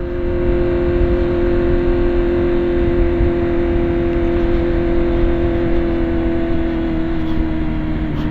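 BMW S1000RR inline-four engine holding a steady high note while riding at speed, with wind rush over the microphone. The engine pitch dips slightly near the end.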